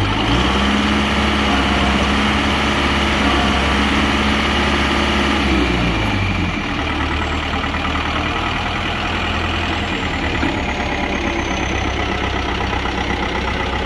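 Kubota M6040SU tractor's diesel engine revving up, holding at higher revs for about six seconds, then dropping back to a lower, steady idle.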